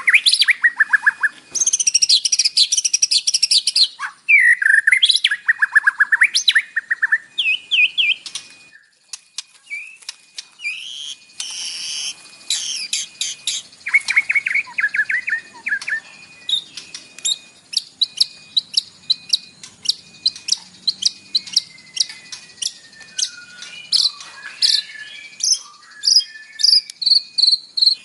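White-rumped shama (murai batu) singing a varied song full of mimicked fills: quick rattling trills, short whistles and chattering phrases, with a brief pause around a third of the way in, then a long run of sharp, rapid notes.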